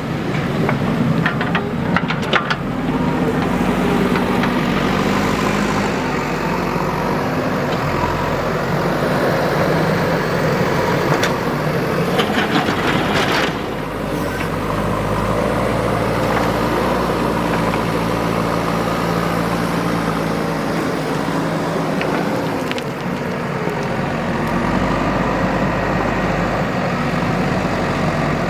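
Diesel engine of a JCB 3DX backhoe loader working, its pitch rising and falling as it takes load. Clatters and rattles come near the start and again about halfway through.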